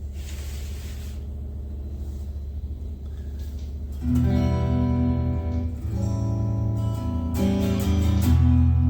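A low steady hum from the small amplified speaker. About four seconds in, a solid-body electric guitar (MSA Vision Sound ST5W) starts playing chords through it, the sustained notes changing every second or so.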